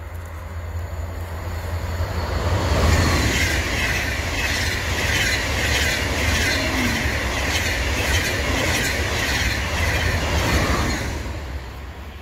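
ICE high-speed train passing close by on the track: the rush of the train swells over the first three seconds, holds loud with a regular clatter of wheels, and fades away over the last second or so.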